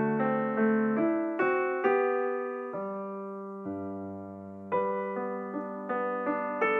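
Background piano music: a slow melody of struck notes, each fading after it is played, with a held chord through the middle.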